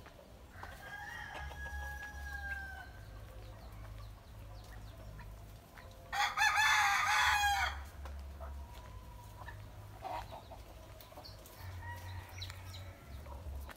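A rooster crowing twice: a fainter, drawn-out crow about a second in, then a loud crow close by about six seconds in.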